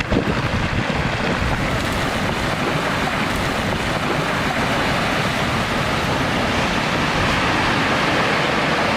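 Loud, steady rushing noise of wind and water.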